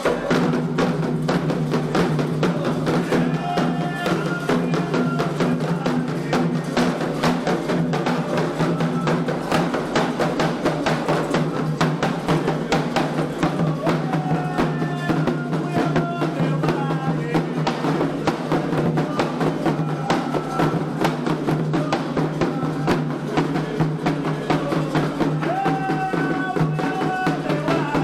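Candomblé ritual music: hand drums beat a dense, steady rhythm while voices sing a chant in short held phrases.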